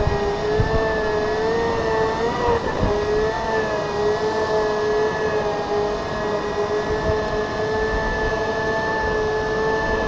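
Segway's electric drive whining steadily while riding at an even speed, the pitch wavering slightly, with wind rumbling on the microphone.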